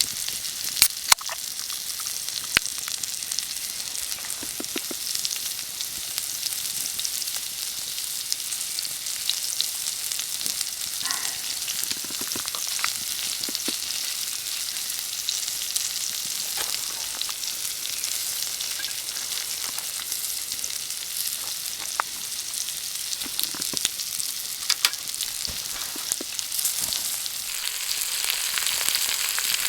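Gopchang and makchang (Korean grilled intestines) sizzling over the fire, a steady hiss with scattered sharp pops of spitting fat.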